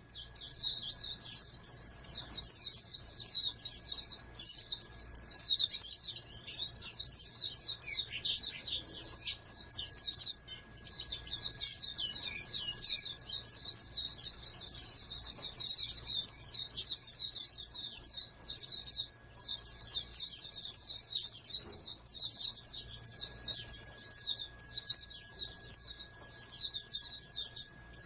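Pleci (white-eye, Zosterops) singing a long, fast, high-pitched twittering song almost without pause, breaking off briefly about ten seconds in and again a little past twenty seconds.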